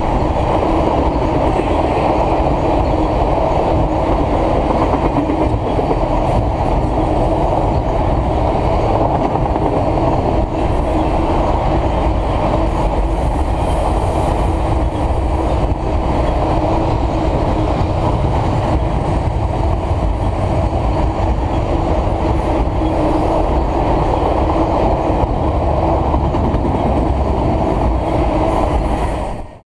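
Freight train of autorack cars rolling past close by: a steady, loud rumble of steel wheels on rail with a constant low tone, cutting off abruptly at the very end.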